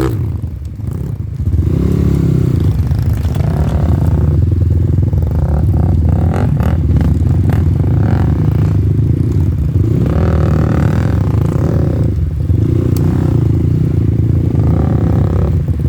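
Off-road motorcycle engine running under load, revving up and easing off several times as the bike works along a rough trail. A run of short knocks and clatter comes a few seconds in.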